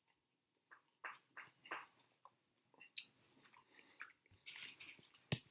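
Faint mouth sounds of someone eating gelato: scattered wet smacks and chewing, with a sharper click near the end.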